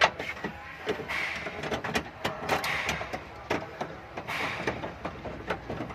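Irregular clicks, knocks and rattling of hands working with parts and tools, with one sharp knock at the start.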